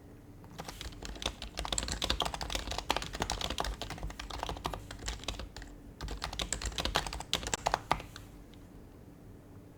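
Typing on an HHKB Professional HYBRID Type-S keyboard's quieted Topre keys: a fast burst of soft key presses for about seven seconds, with a short pause about two-thirds of the way through. It ends about two seconds before the end, leaving only room tone.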